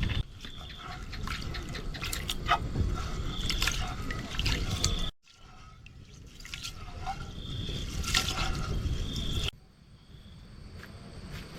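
Water trickling and dripping, with scattered small clicks and knocks. The sound drops away abruptly twice, about five seconds in and again near the end.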